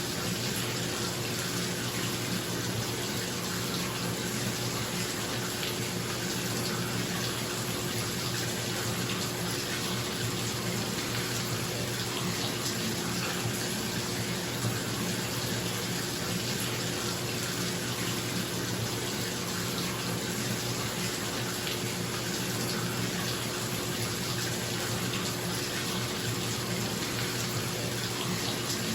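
Bathtub tap running, water pouring steadily into a filling tub, with a bathroom exhaust fan humming evenly underneath.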